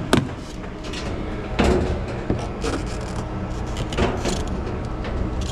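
A few sharp knocks and clatters of hard objects being handled, the strongest right at the start and another about a second and a half in, over a steady low hum.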